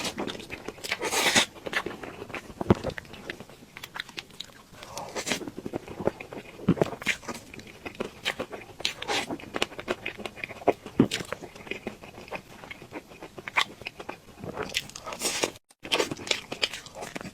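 Close-up mukbang eating sounds: a person biting and chewing cake, with frequent short, irregular clicks of the mouth.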